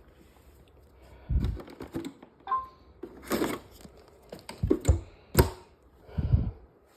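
A run of irregular knocks and clattering thuds, about half a dozen of them, with a short beep about two and a half seconds in.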